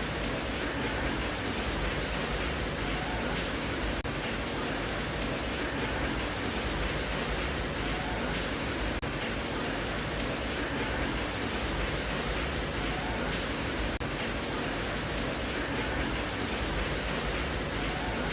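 Steady, unbroken rain.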